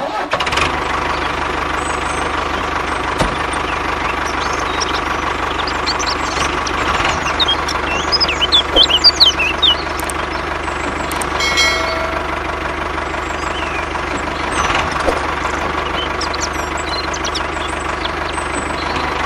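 Mini tractor's engine running steadily at idle, with a fast even knock. A flurry of short high chirps comes a little before the middle.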